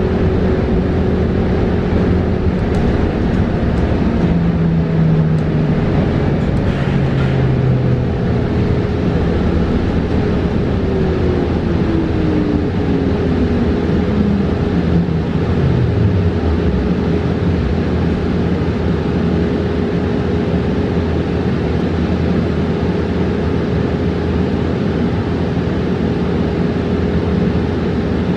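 Inside a New Flyer XE40 battery-electric bus under way: steady road and tyre rumble under a constant electric hum. About a third of the way in, a whine from the electric drive falls smoothly in pitch over several seconds as the bus slows.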